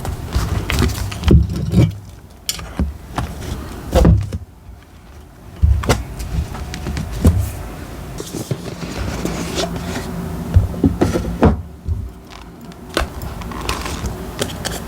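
Handling sounds of diary decorating at a desk: paper and stationery being moved and set down, with frequent taps, clicks and knocks over a low rumble.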